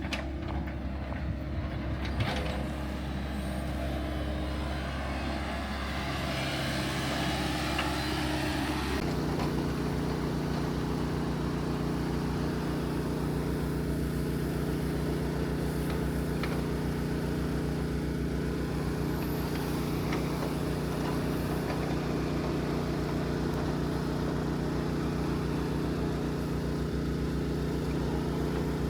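Engine of a piece of earthmoving equipment running, with the engine note changing about nine seconds in and then holding steady.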